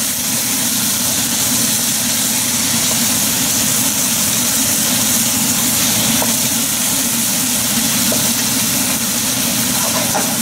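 Chicken and broccoli sizzling in hot oil in a pan on high heat: a steady frying hiss over a low, even hum.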